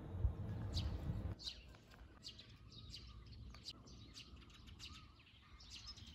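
Birds chirping faintly: many short, high chirps scattered over several seconds, after about a second of low rumble.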